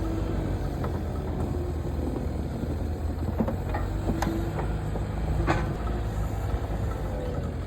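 Pickup truck engine running steadily, with a few sharp knocks or clunks over it.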